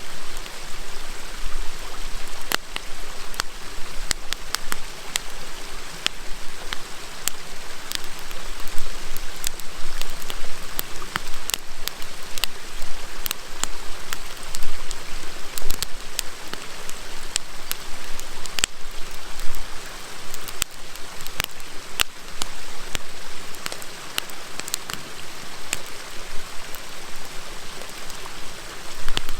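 Wood campfire crackling, with frequent sharp irregular pops, over the steady murmur of a flowing river.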